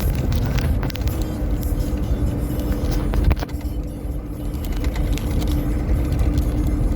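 A vehicle driving over rough ground: a steady engine hum over a heavy low rumble, with scattered knocks and rattles in the first few seconds.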